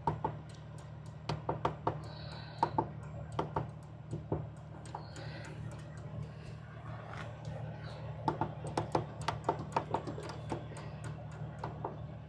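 Irregular clicks and knocks, some in quick runs, over a steady low hum.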